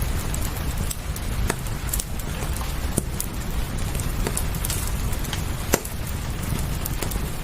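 Wood fire in a fireplace crackling, with sharp irregular pops, one louder about two thirds of the way through, over a steady low rumble and the even hiss of rain.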